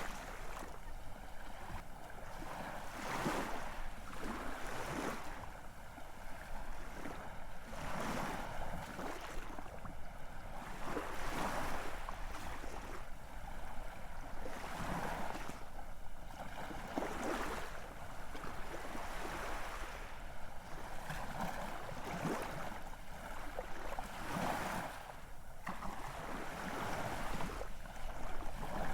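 Ocean surf: a continuous hiss of waves washing in, swelling again every second or two.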